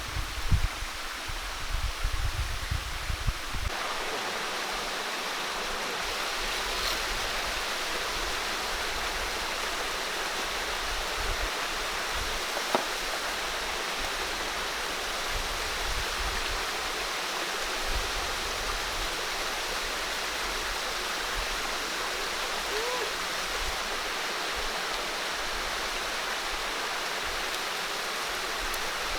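Steady rush of running water. A few low bumps and rumbles sound in the first three or four seconds before the water continues alone.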